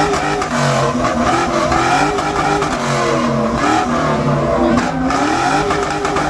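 Car engine revving through its exhaust, the pitch rising and falling again and again with a steady, loud drone.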